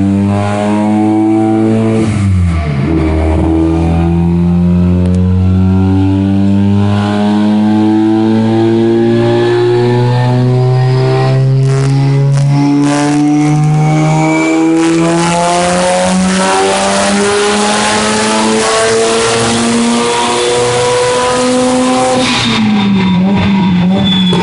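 Streetported two-rotor rotary engine of a single-turbo Mazda RX-7 FD (Precision 6766 turbo, 3.5-inch exhaust) in a dyno pull. After a brief dip about two seconds in, the engine note climbs steadily through the rev range for about twenty seconds and grows harsher near the top. It drops sharply near the end as the throttle is closed.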